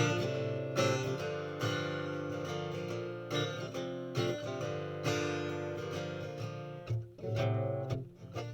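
Acoustic guitar strummed in chords without singing, about one strum a second, with the last strums about seven seconds in and then ringing out as the song ends.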